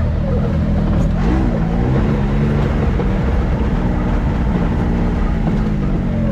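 Can-Am X3 side-by-side's turbocharged three-cylinder engine running steadily under way, its pitch briefly rising and falling about a second in.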